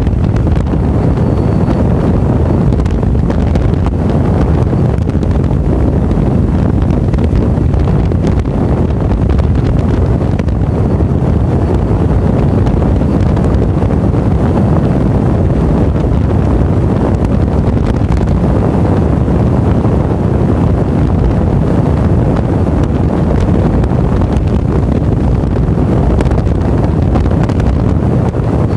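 Steady, loud wind rush buffeting the microphone of a motorcycle rider moving at speed, with the bike's running and road noise blended underneath.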